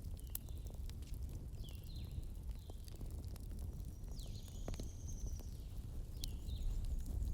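Campfire crackling, with scattered sharp pops over a low steady rumble. Short high chirps come through now and then, including a longer one about four seconds in.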